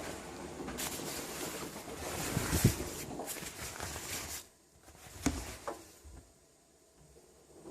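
Front-loading washing machine tumbling a wet load, water and laundry sloshing in the drum, then the drum stops about four and a half seconds in with a couple of soft thuds as it pauses between turns.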